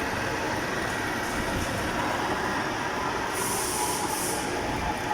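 Lathe boring the inside of a large sleeve with a DNMG insert at slow speed under coolant: a steady running noise with a faint steady tone, and two short high hisses about three and a half seconds in.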